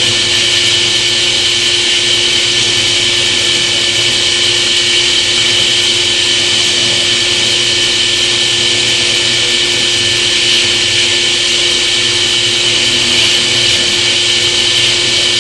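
Power tool spinning a small boring bit down into natural stone tile to grind away the peaks left around the bored hole, its motor running steadily at one speed with a high whine.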